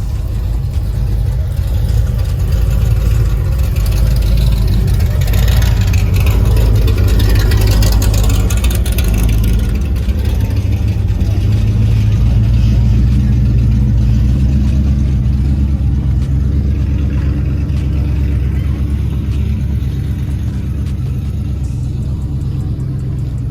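Car engine running loud and close, a deep steady rumble that swells in the first few seconds, with a rush of higher noise between about five and ten seconds in, then eases slightly toward the end.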